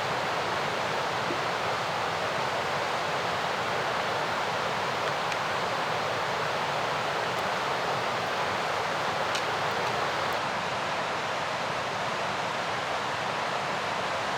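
Fast-flowing mountain river rushing steadily, an even roar of water, with a couple of faint ticks about two-thirds of the way through.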